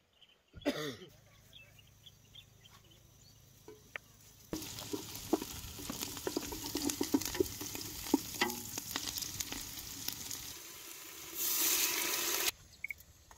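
Chopped onions frying in a large aluminium pot, sizzling and crackling while a wooden spoon stirs them, with small clicks and scrapes against the pot. Near the end, liquid is poured into the hot pot with a loud rush of hissing that cuts off suddenly.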